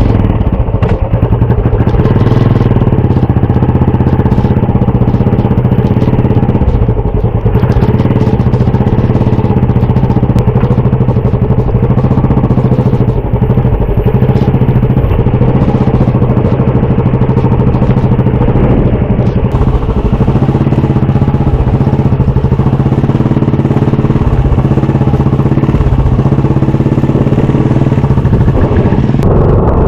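A vehicle engine idling steadily and loudly, close by.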